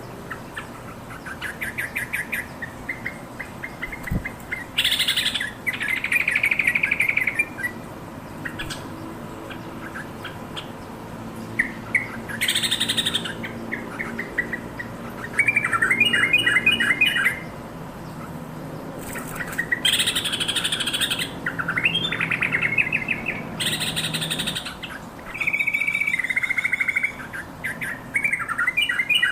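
Yellow-vented bulbul calling repeatedly: bubbly chattering phrases and quick trills, broken every few seconds by a louder, harsh, noisy burst of call.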